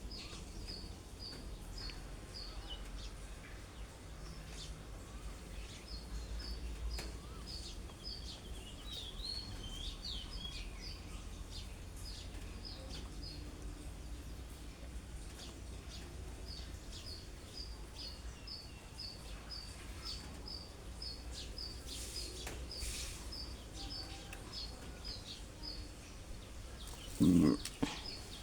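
A bird calling over and over, short high chirps at about three a second in long runs, over a steady low background rumble. A brief louder sound breaks in near the end.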